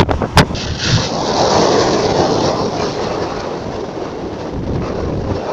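Wind buffeting the microphone: a few loud crackles at the start, then a steady rumbling hiss.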